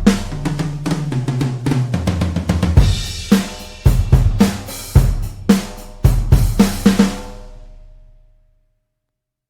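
Toontrack EZdrummer 3 sampled acoustic drum kit playing a groove of kick, snare, hi-hat and cymbals, with a run of low drum hits stepping down in pitch in the first couple of seconds. The pattern stops about seven seconds in and the last hits ring out to silence.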